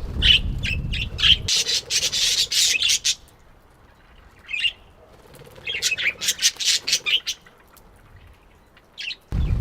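Parakeets calling: rapid strings of harsh, screechy calls in two bouts of a few seconds each, with single calls in the quieter gaps between.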